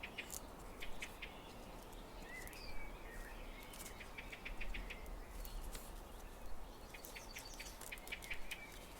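Faint handling of thick origami paper as it is folded and pressed, with short runs of rapid crackling ticks. A bird chirps faintly in the background.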